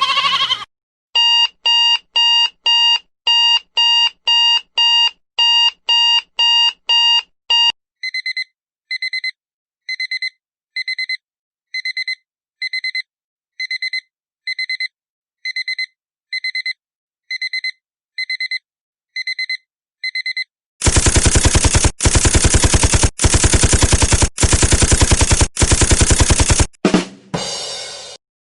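Electronic alarm beeping, about two beeps a second, then a slower, higher beep about once a second. About two-thirds of the way in, a loud harsh alarm buzzer takes over, sounding in five pulses of about a second each, and ends with a short falling tone.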